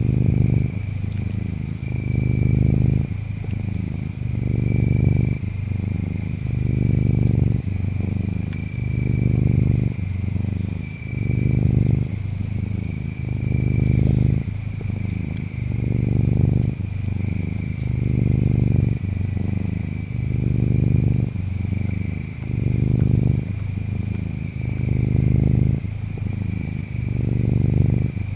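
A domestic cat purring close up, a low rumble that swells and fades in a regular cycle of roughly two seconds. Insects chirp steadily behind it, with a high trilling tone and bursts of very high chirps.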